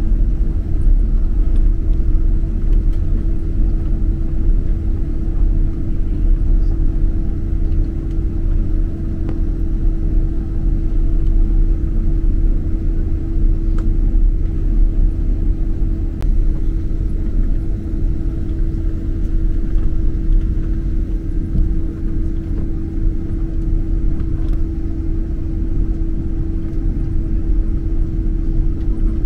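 Steady low rumble of a Boeing 767-300 heard inside the cabin, the noise of its engines and airflow, with a constant hum above it and no change in level.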